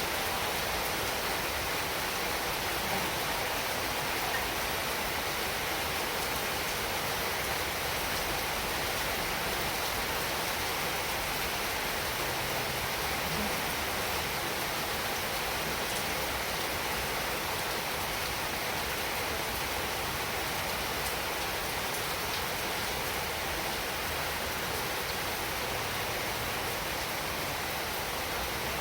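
Heavy rain falling steadily, a dense even hiss with faint drop ticks.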